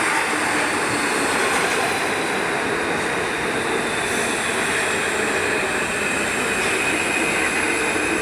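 Santiago Metro AS-02 train pulling into a station: steady rolling rumble of the cars, with a high, steady whine and wheel squeal over it.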